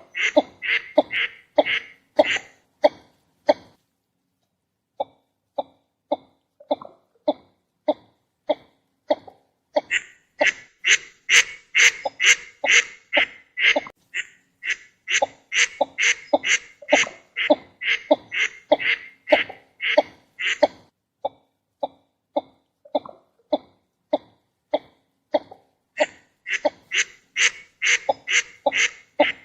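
Northern shoveler ducks calling: a long series of short, clipped nasal notes at about three a second. The series pauses for about a second near the start, and runs in louder, harsher stretches alternating with softer ones.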